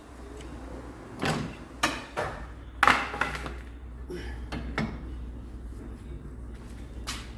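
Metal tools and parts knocking and clanking in a handful of sharp, irregular knocks while work goes on under a car to remove its gearbox, over a faint low hum.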